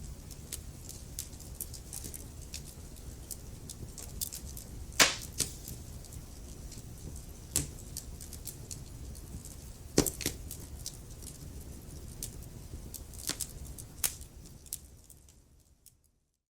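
Wood fire crackling: frequent small snaps and a few louder pops over a low steady rumble. Two of the pops, about five and ten seconds in, stand out. Near the end the sound fades out to silence.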